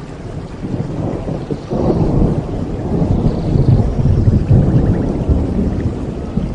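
Steady heavy rain with a long roll of thunder that swells about two seconds in, rumbles loudest in the middle and slowly eases off.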